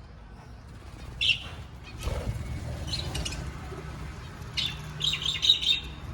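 Pet budgerigars chirping in short bursts: once about a second in, again near three seconds, then a quick run of chirps from about four and a half seconds. A low steady rumble runs underneath from about two seconds in.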